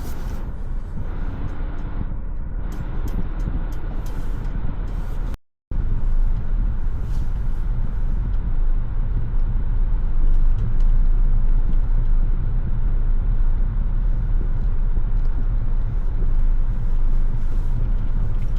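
Car driving, with a steady low rumble of road and engine noise. The sound cuts out for a moment about five and a half seconds in, then carries on slightly louder.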